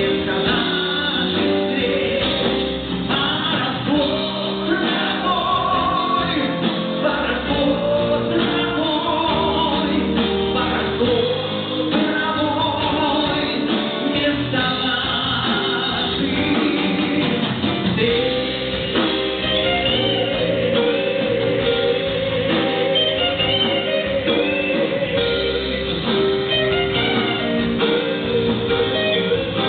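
Soviet-era vocal-instrumental ensemble pop song: a sung melody over guitar and band accompaniment, playing continuously.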